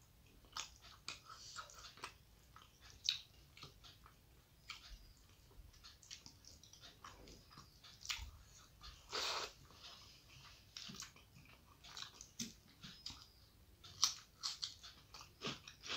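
Close-up eating sounds of rice and fish head curry eaten by hand: a steady run of short chewing clicks and crunches, with one longer, louder crunch a little past the middle.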